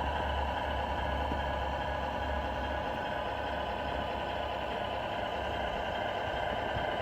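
Radio-controlled Scania R470 model truck running: a steady hum with a low rumble underneath.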